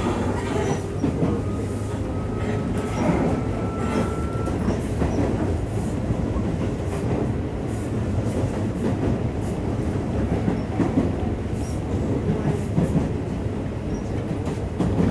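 Cabin running sound of a Tobu 8000 series electric commuter train under way: a steady rumble of wheels and running gear, with irregular clicks over rail joints. A faint rising whine runs through the first few seconds, then fades.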